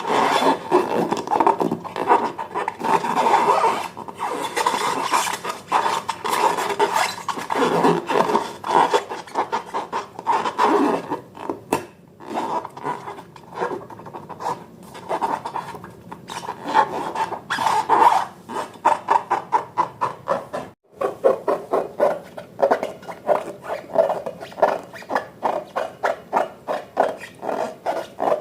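Slime being stirred and squished, making dense, sticky clicking and rasping. There is a brief break about 21 seconds in, after which the clicks come in a more even rhythm.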